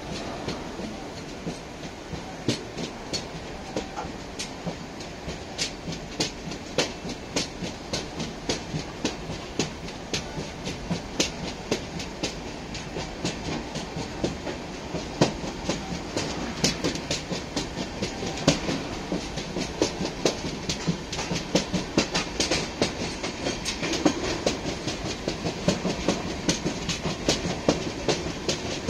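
Train wheels clattering over the rail joints of a steel bridge, heard from aboard the moving train: a steady rumble with a rapid run of sharp clicks that grows louder and denser in the second half.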